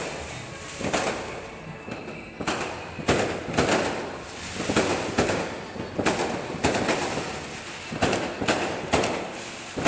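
Fireworks bursting in a string of bangs at uneven intervals, about one or two a second, each followed by a short echo.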